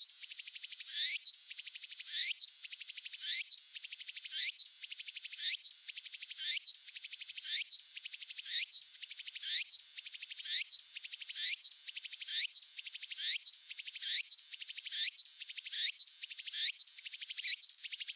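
Tsukutsukuboshi cicada (Meimuna opalifera) singing, played back slowed down: a steady high buzz with a repeating phrase about once a second, each a rising sweep that ends in a short louder note.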